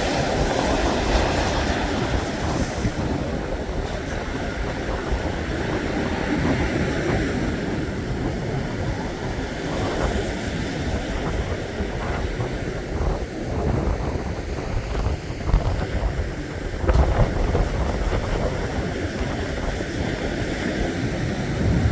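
Winter sea surf breaking on a beach, with strong wind buffeting the microphone in gusts and a heavy low rumble.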